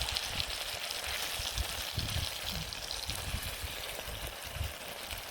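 Peri peri chicken and vegetables sizzling in a pot over a campfire as they are stirred: a steady hiss with a few short low thumps.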